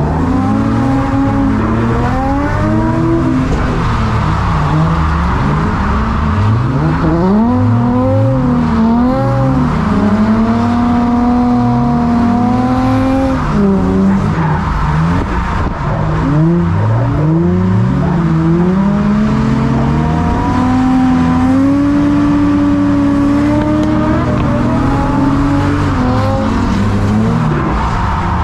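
Drift car's engine revving hard, its pitch climbing and dropping again and again as the driver works the throttle through a lap.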